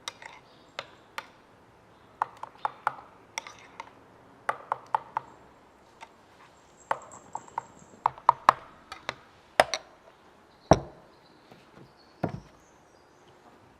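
A run of irregular light knocks and clicks, with one heavier thud near the end.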